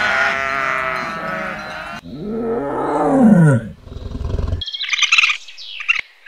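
Several goats bleating together. About two seconds in, a tiger roars loudly, and the roar fades out by about four and a half seconds. It is followed by a raccoon's quick, high-pitched chirps.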